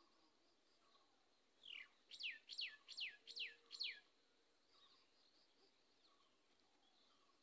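A bird calling: a quick run of about six sharp, falling whistles, roughly two or three a second, starting about two seconds in. Faint chirping in the background before and after.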